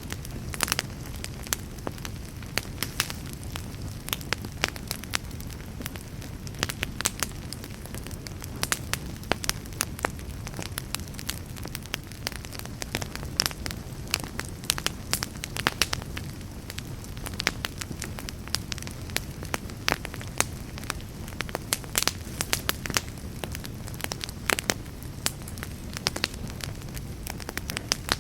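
Wood fire in a fireplace crackling: irregular sharp crackles and pops, several a second, over a steady low rumble of the flames.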